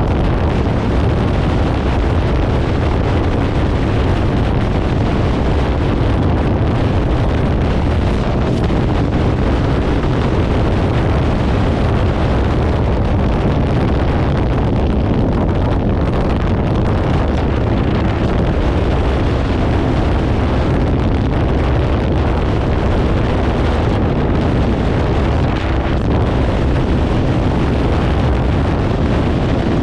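Kawasaki Ninja 500's parallel-twin engine through a Leo Vince aftermarket exhaust, running steadily on the move, with wind buffeting the microphone.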